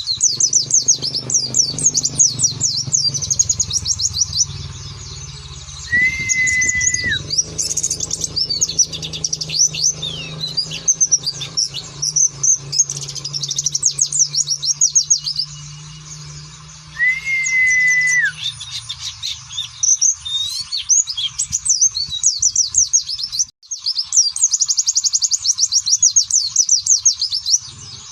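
White-eyes (pleci) singing in long runs of very fast, high twittering trills with short breaks between runs. A clearer, lower whistled note that drops at its end comes in twice, about six seconds in and again about seventeen seconds in. A low steady hum lies underneath for the first two-thirds.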